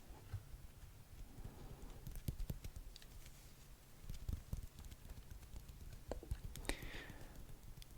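Soft, irregular clicks and taps made close to the microphone, with one louder hissy burst near the end.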